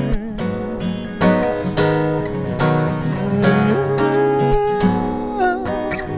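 Acoustic guitar strummed in an instrumental passage between sung lines of a slow song.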